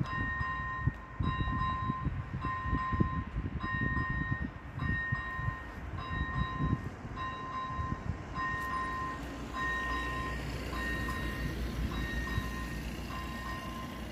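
AŽD 97 level crossing's electronic warning bell dinging about once a second, each stroke a clear two-pitch tone. Beneath it a train passes, with irregular clatter of wheels over the rails in the first half, then a steadier low rumble.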